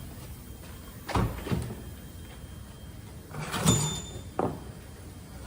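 A few knocks and clunks of heavy metal parts being handled as a truck air-brake chamber is fitted to an air-disc brake caliper, the loudest about three and a half seconds in with a brief metallic ring.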